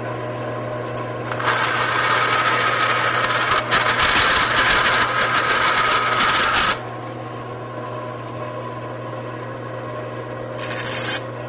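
An electric power tool running with a steady motor hum, then loudly cutting into wood for about five seconds, with a second short burst near the end.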